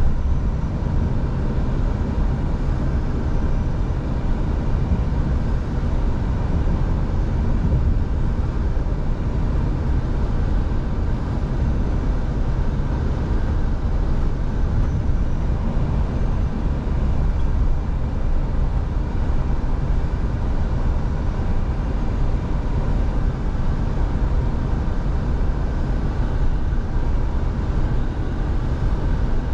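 Scania V8 diesel truck driving at a steady pace, its engine drone and road noise running evenly, with no gear changes or other sudden sounds.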